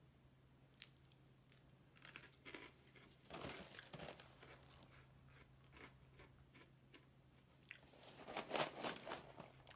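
Someone eating crunchy Post Oreo O's cereal: several short bouts of crunching and chewing, the last and loudest near the end.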